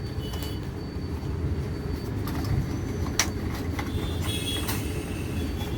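Steady low background rumble with a few light clicks, and one sharper tick about three seconds in.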